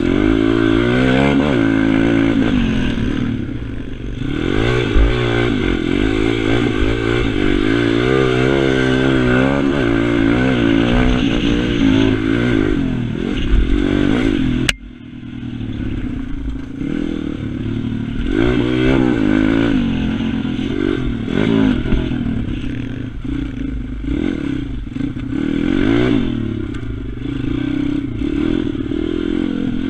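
Pit bike's small single-cylinder engine revving as it is ridden hard, its pitch rising and falling again and again with throttle and gear changes. About halfway through the sound breaks off suddenly and picks up again.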